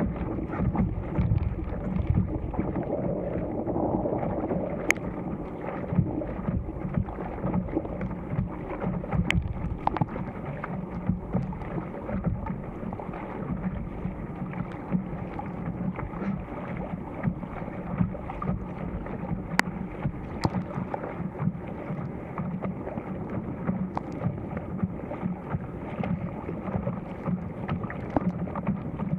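Wind buffeting the camera microphone over water splashing and lapping against an inflatable stand-up paddle board while it is paddled, with a few sharp clicks.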